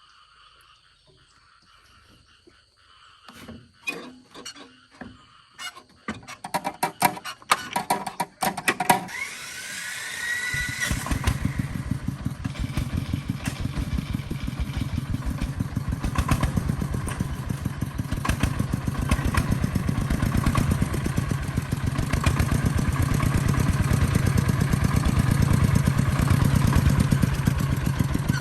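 Some knocking and clattering, then an engine starts about ten seconds in with a brief rising whine and settles into steady running with a quick, even pulse, growing gradually louder. Insects chirp steadily before the engine starts.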